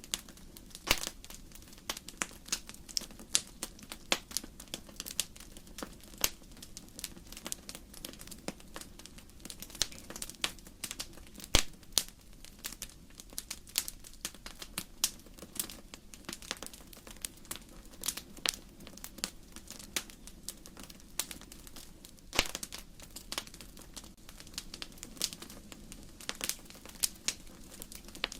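Burning firewood crackling in a fireplace: a dense, irregular run of sharp pops and snaps over a faint steady low rush, with one louder pop about halfway through.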